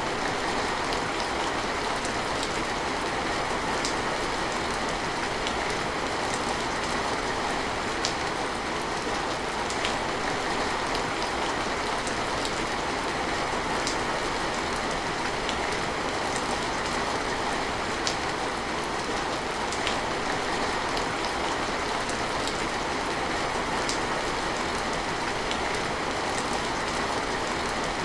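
Steady rain falling, an even hiss with sharper single drip ticks every couple of seconds.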